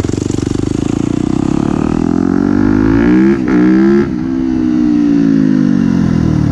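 2017 Yamaha YZ250F's single-cylinder four-stroke engine revving hard under acceleration. Its pitch climbs for about three seconds, breaks briefly about halfway through, then holds high and slowly eases off.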